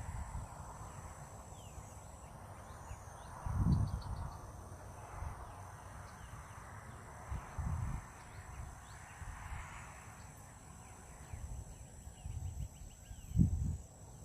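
Outdoor morning ambience: faint bird chirps and trills over a steady high-pitched drone, broken by three short low rumbles on the microphone.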